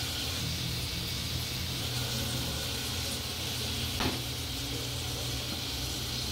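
Chopped onions, tomatoes and spices sizzling in oil in an aluminium pressure cooker, over a steady low hum. One sharp clink comes about four seconds in.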